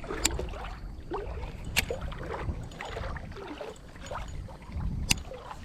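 Water lapping and gurgling over a low rumble, with three sharp clicks.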